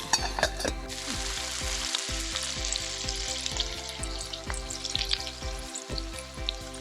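Hamburg steak made with Hida beef frying over a campfire: a steady sizzle with scattered small pops.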